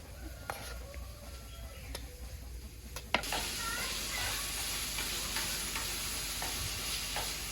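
Food frying in a hot pan, a steady sizzle that starts suddenly about three seconds in after a quieter stretch.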